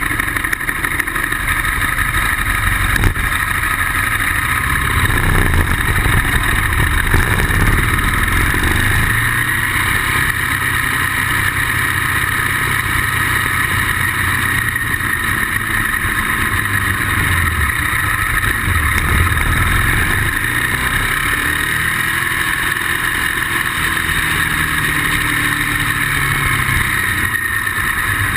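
Ducati motorcycle engine running at speed, its pitch rising and falling with the throttle over a steady rushing noise. The owner says the bike was not running great.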